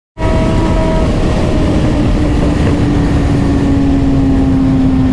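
Suzuki GSX-R600 motorcycle engine running while riding, its steady tone slowly dropping in pitch, over a heavy low rumble.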